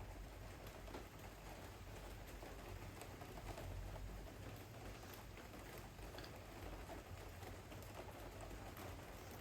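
Torrential rain falling steadily: a dense hiss dotted with many small ticks of drops, over a low rumble.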